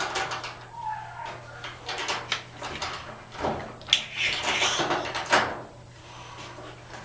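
A part being slid out of a dryer's cabinet and handled: a run of knocks, clicks and scraping, with a short squeak about a second in.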